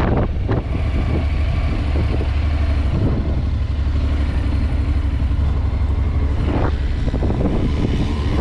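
Wind buffeting the microphone of a motorcycle-mounted GoPro while riding a Honda NC750X, a steady heavy low rumble. The bike's parallel-twin engine runs underneath.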